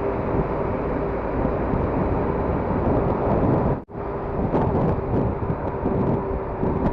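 Wind rushing over the microphone on a moving motorcycle, with the steady drone of the KTM RC 390's single-cylinder engine underneath. The sound cuts out for an instant about four seconds in, then carries on as before.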